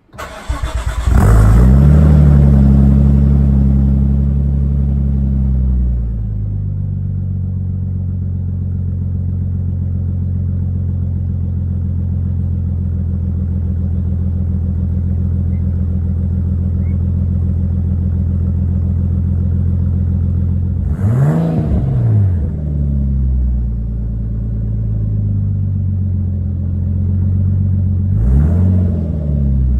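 Nissan R34 Skyline inline-six with an aftermarket exhaust: the starter cranks briefly and the engine catches at once into a high cold-start idle. The idle eases down and drops to a lower steady idle about six seconds in. Two quick throttle blips follow, one around two-thirds of the way through and one near the end.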